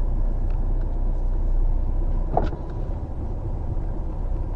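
Off-road vehicle's engine running at low speed as a steady low hum, with a single knock about two and a half seconds in.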